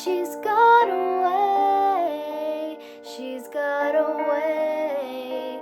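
Female voice singing wordless, gliding vocal runs over an instrumental backing track of held keyboard chords.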